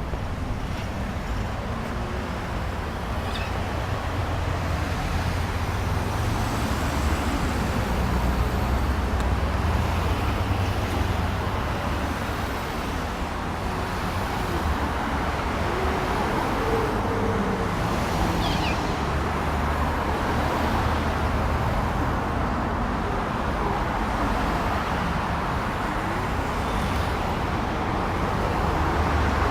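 Steady road traffic noise, a continuous rumble and hiss, with a few faint short high chirps.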